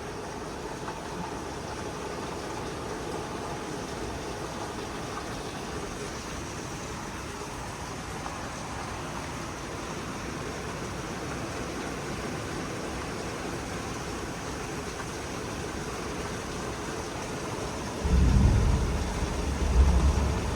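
Heavy storm rain pouring, a steady hiss. About three-quarters of the way through, gusts of wind start buffeting the microphone with a loud low rumble.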